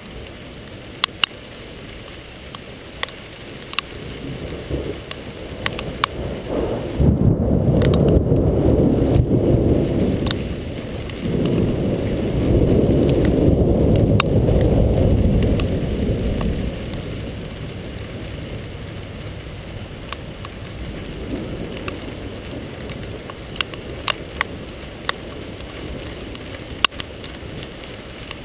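Rain falling steadily with scattered sharp ticks of drops striking close by, and loud rolling thunder rumbling for several seconds starting about seven seconds in, then a second long rumble starting about eleven seconds in that fades away.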